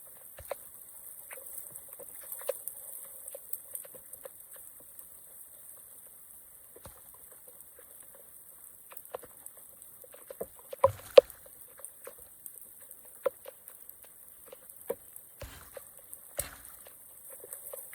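Water dripping and trickling in scattered drops and small splashes, with a couple of louder knocks about eleven seconds in.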